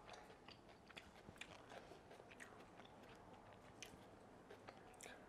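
Faint close-miked chewing of fried fish balls: soft, irregular wet mouth clicks and small crunches.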